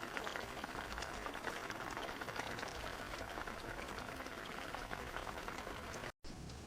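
A pot of liquid bubbling at a boil: a dense crackle of small pops over a steady hiss. It cuts off near the end.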